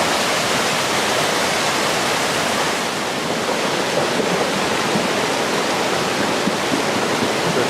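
Steady, loud rush of a flooded creek in spate, churning water running fast and hard.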